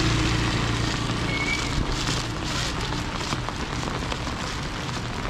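Steady rain falling and pattering on surfaces, with a low hum fading out over the first second and a half.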